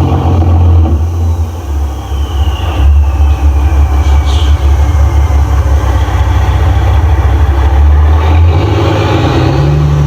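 Loud, steady low rumble of a running vehicle, with a faint high tone that falls in pitch a couple of seconds in.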